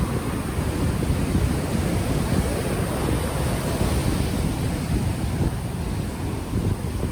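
Ocean waves washing ashore, mixed with heavy low wind buffeting on an unshielded microphone.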